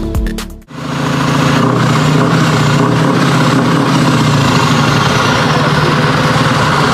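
Electronic music cuts off abruptly within the first second, then a heavy truck's diesel engine runs at a steady pitch.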